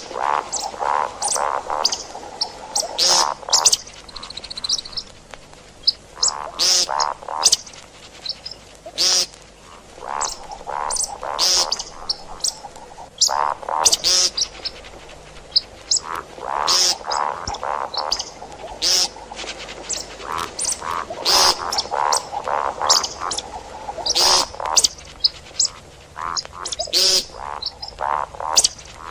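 Calls of the bird that Arab hunters name shakab or 'ground chicken', repeated in bouts every few seconds, each bout a quick run of notes.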